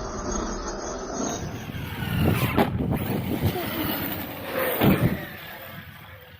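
Arrma Outcast 6S RC truck's brushless motor whining up and down in pitch with the throttle, over tyre and gravel noise, with two hard knocks about two and a half and five seconds in.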